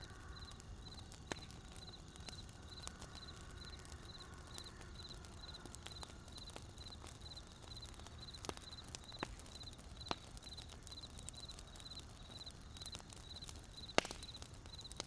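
Wood campfire burning with a low steady rumble and sparse sharp crackles and pops, the loudest one about 14 seconds in. A faint high chirp repeats about three times a second throughout.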